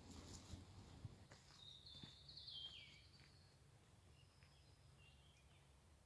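Faint woodland birdsong: one warbled song phrase about a second and a half in, dropping in pitch at its end, followed by a few short high chirps.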